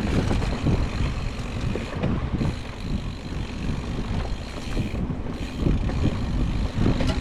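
Wind buffeting the action camera's microphone over the rumble of a mountain bike rolling fast along a dirt trail, with short irregular knocks and rattles as the bike goes over bumps.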